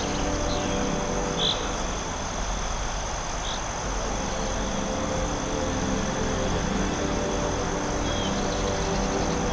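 Forest ambience: a steady high insect drone, with a few short, high bird chirps in the first few seconds and one more near the end, over a low steady hum.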